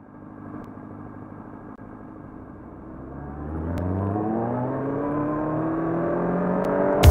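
Sportbike engine accelerating, its pitch rising smoothly and getting louder through the second half.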